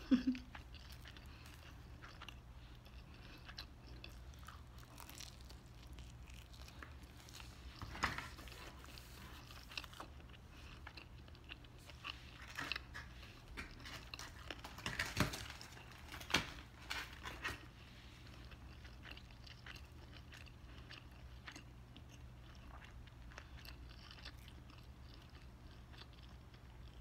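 A person chewing pizza close to the microphone: soft, irregular crunches and mouth clicks. A few louder crunches come through the middle, and it grows quieter toward the end.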